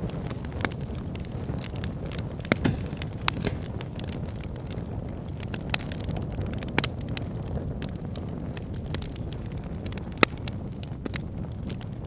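Wood bonfire burning: irregular crackling and popping snaps over a steady low rumble of the flames, with the loudest pop about ten seconds in.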